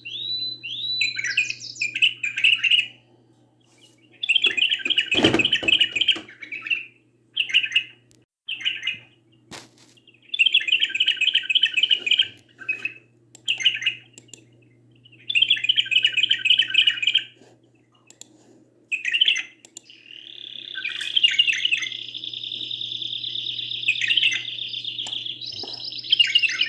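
Canary singing in bursts of rapid trilled phrases with short pauses between them, then from about twenty seconds in a long unbroken rolling trill. A faint low hum runs underneath, and there is a single thump about five seconds in.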